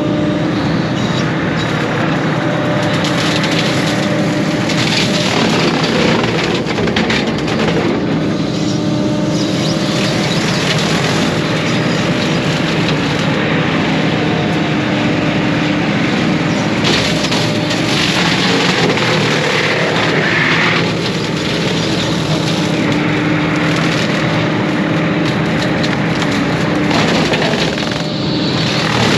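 Case 140 excavator's diesel engine running steadily under load while its brush cutter attachment chews through brush, with frequent cracking and splintering of wood.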